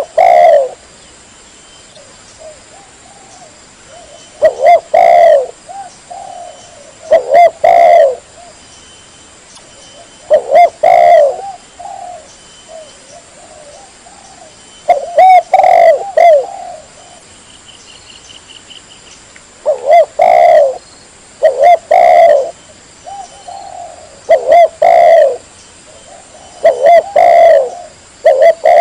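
Spotted dove (tekukur) cooing loudly and clearly, a lure call for wild doves. Short phrases of coos come every two to three seconds, with a longer pause in the middle.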